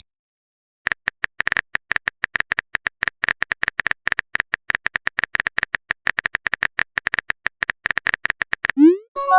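Keyboard-typing sound effect of a chat app: a long run of quick, uneven key clicks lasting about eight seconds. Near the end it is followed by a short rising pop and the start of a chiming message-notification tone.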